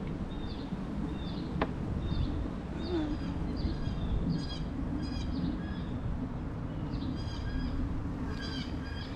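Small birds chirping over and over, with quick trilled phrases later on, over a steady low rumble of outdoor noise.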